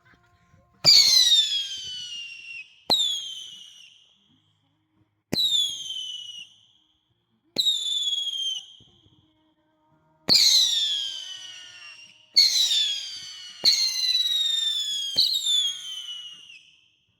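A nine-shot Shock Attack firework cake firing about eight shots one after another. Each is a sharp pop followed by a shrill whistle that slides down in pitch for a second or two, the spinning effect of the shot, and the last shots come closer together.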